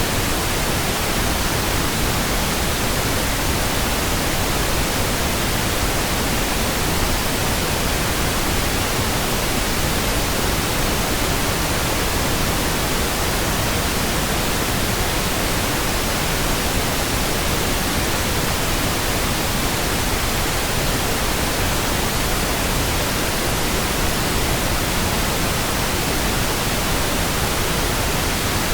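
Steady pink noise: an even, unchanging hiss across the whole range, with nothing else in it.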